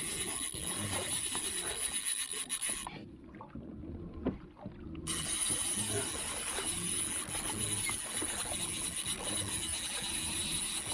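Handling noise in a kayak: rubbing and light knocks against the hull with water lapping, going softer and muffled for a couple of seconds about three seconds in.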